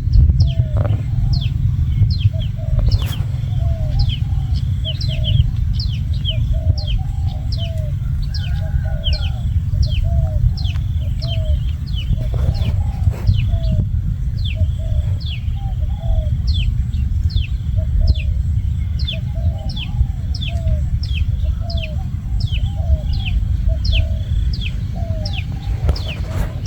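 Birds calling steadily: short high falling chirps about twice a second, with lower arched notes about once a second, over a constant low rumble.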